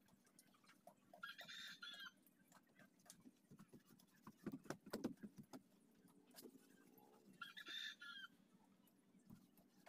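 Two short bird calls, one about a second in and one near the end, each under a second long, with a few faint knocks in between.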